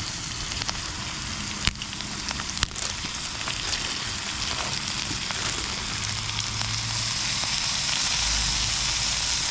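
Fish fillets frying in hot oil with a steady sizzle, and a couple of sharp pops in the first few seconds.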